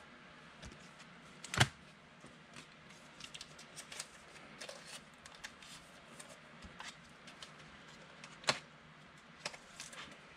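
Football trading cards being handled and sorted by hand: light clicks and slides of card stock, with two sharper taps, about a second and a half in and again about eight seconds in.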